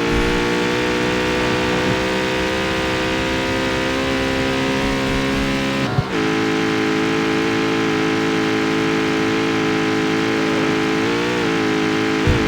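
Jaguar F-Type's supercharged V8 running at a steady engine speed. About halfway through there is a brief click and the note steps down to a slightly lower steady pitch, which it holds; there is a small wobble in the note near the end.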